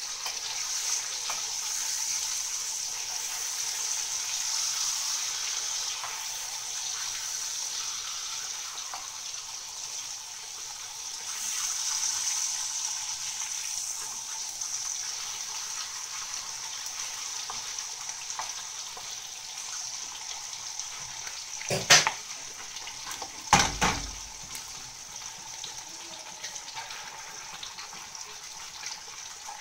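Chicken salami slices sizzling in hot fat in a frying pan, a steady high hiss. Two sharp knocks stand out about 22 and 24 seconds in.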